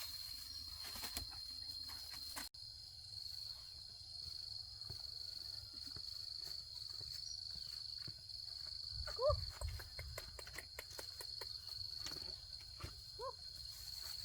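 Insects droning on one steady high note, with faint scattered clicks. A short rising-and-falling call sounds twice, about nine and thirteen seconds in.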